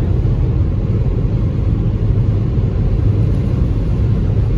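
Steady low rumble of road and engine noise heard inside a Toyota Corolla's cabin while driving.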